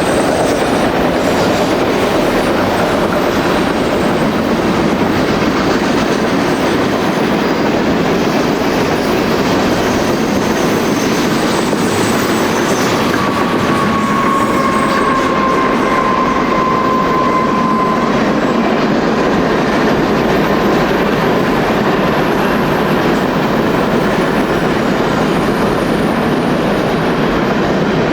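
A train's railcars rolling steadily past on the track, the wheels clattering over the rails. About halfway through, a thin wheel squeal rings out for a few seconds, sinking slightly in pitch.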